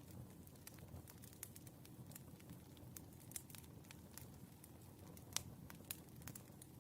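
Burning firewood crackling faintly: irregular sharp pops and snaps over a soft low rumble, with one louder pop about five seconds in.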